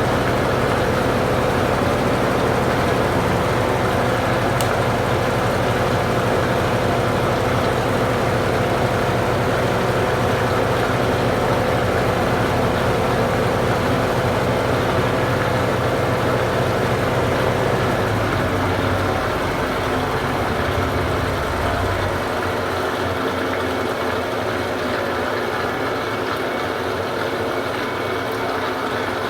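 Consul Supercargo 8 kg (CWL08C) top-loading washing machine running with a steady motor and drum hum. Its deepest hum fades and drops away about three quarters of the way through, and the machine gets slightly quieter.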